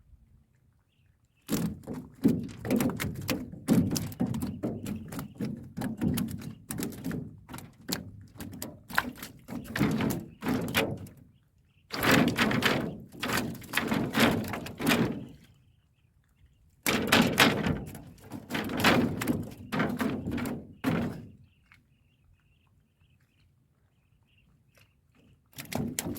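Rapid thumping and knocking in three long bursts and a short one near the end, as a fish trap full of silver barb is emptied into a boat and the fish thrash against the boat.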